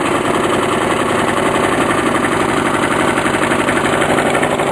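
Briggs & Stratton lawn mower engine running steadily at a fast idle through a scooter muffler fitted in place of its own exhaust, with a rapid, even exhaust pulse.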